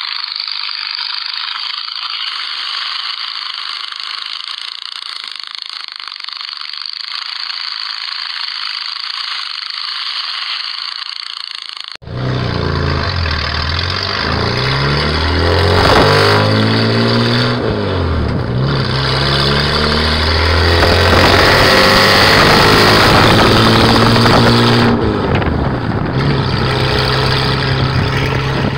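Ford 300 cubic-inch (4.9 L) inline-six with dual exhaust, revving up and down several times, then holding a steady pitch near the end. Before the engine cuts in about twelve seconds in, there is a thin, high-pitched sound with no deep tones.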